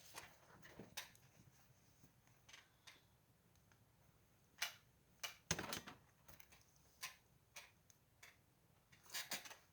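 Wood fire crackling faintly, with irregular sharp pops and snaps; the loudest cluster of pops comes about five and a half seconds in and another near the end.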